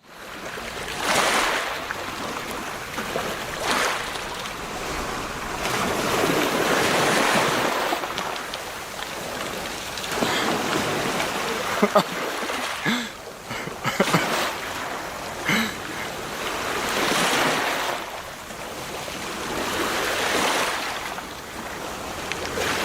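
Rushing water surging and easing every few seconds, with a few sharp knocks around the middle.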